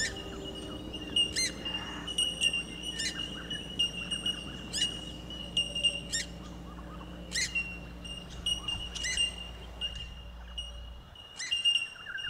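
Wild birds calling, with short sharp calls about once a second over a steady high-pitched drone.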